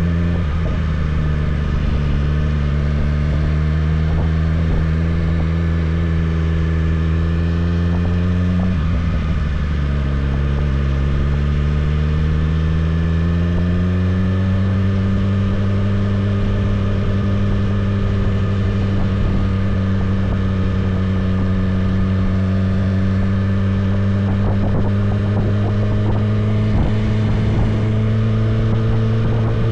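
A BMW S1000RR's inline-four engine pulls at a steady cruise, its note rising gently. About nine seconds in, the pitch drops sharply with an upshift, then climbs again and holds steady for the rest of the ride.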